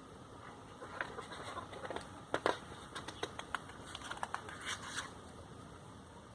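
Faint, scattered clicks and light rustles, about a dozen of them, bunched between about one and five seconds in.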